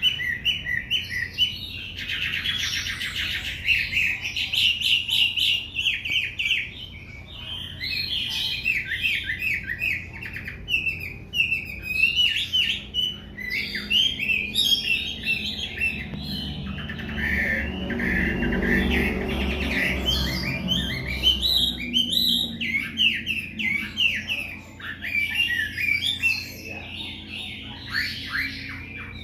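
Hwamei (Chinese melodious laughingthrush) singing a long, varied song of rapid whistled phrases, without a break. A low rumble sits under the song for a few seconds midway.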